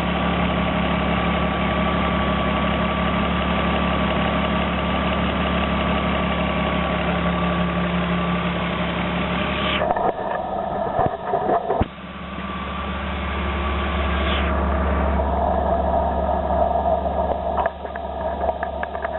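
BMW 325i race car's straight-six engine idling steadily. About halfway through the sound changes abruptly, with a few sharp knocks, then a steady engine-like running sound builds again.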